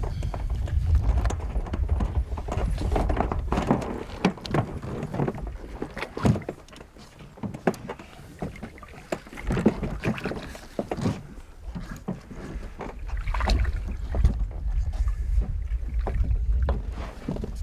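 A small boat being rowed: irregular splashes and knocks of the oars, with wind rumbling on the microphone at the start and again near the end.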